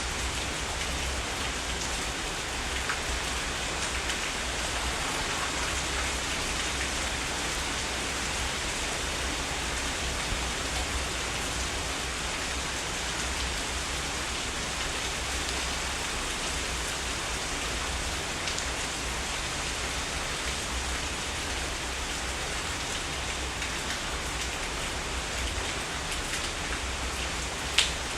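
Steady heavy rain, a dense even hiss with scattered drop impacts. A single sharp tap stands out near the end.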